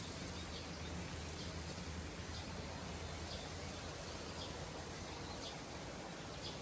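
Steady outdoor nature ambience: an even hiss with a low steady rumble, and a short high chirp from an animal repeating about once a second.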